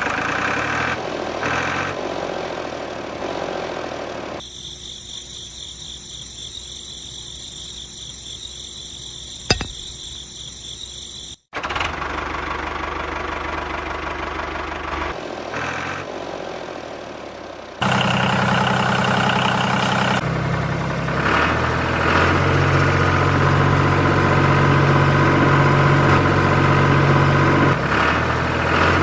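A motor running steadily, heard in several pieces separated by abrupt cuts. From about two-thirds of the way in, a louder, steady low hum takes over.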